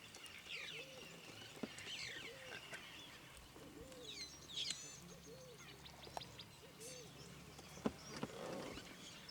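Wild birds calling: quick downward-sliding chirps high up, over a lower call repeated about twice a second, with a faint steady low hum underneath.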